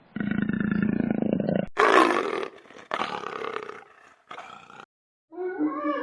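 A large animal's low, pulsing growl, then an abrupt change to a harsher roar in three bursts. Music starts just before the end.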